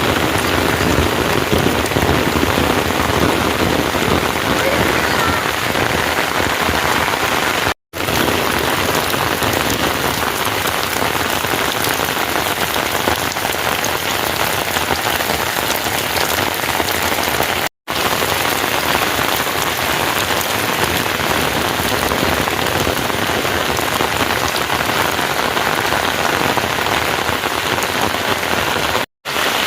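Heavy rain falling steadily, a dense, loud hiss. It breaks off for a split second three times, about 8, 18 and 29 seconds in.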